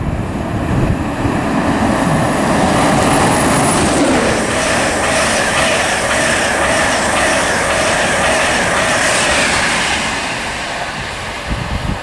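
LNER InterCity 225 express, a Class 91 electric locomotive with Mk4 coaches and a driving van trailer, passing through the station at speed. A loud, steady rush of wheels and air with regular clicking of wheels over the rail joints, and a falling whine about four seconds in. It eases off slightly near the end.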